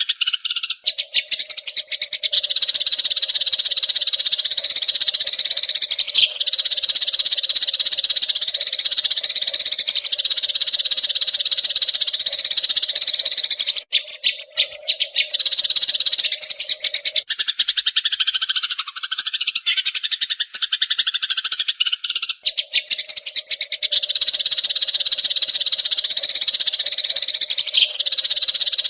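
Eurasian tree sparrows chattering continuously in rapid, high-pitched chirps, with a brief lull about fourteen seconds in. A low steady hum runs underneath and drops out for several seconds past the middle.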